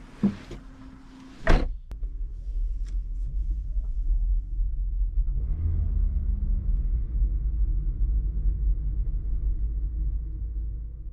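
Two sharp knocks, the second louder, then a steady low rumble that cuts off suddenly.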